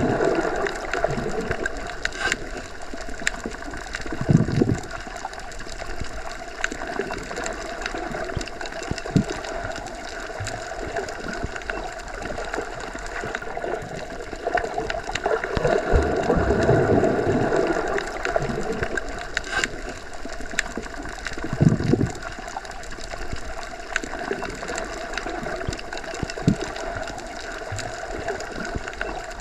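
Underwater ambience: a steady watery wash with low bubbling swells about 4 s in, in the middle and near 22 s, and scattered faint clicks.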